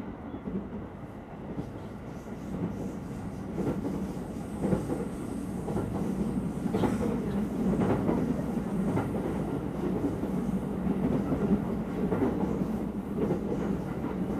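Running noise heard from inside a moving commuter electric train: a steady rumble with wheel clicks over the rail joints. About five seconds in, an oncoming train passes and the sound grows louder.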